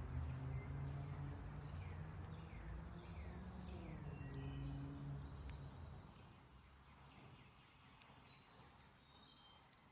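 Faint outdoor ambience between spoken lines. A steady high thin tone like an insect runs through, with a few short falling chirps in the first half, over a low hum that fades about six seconds in.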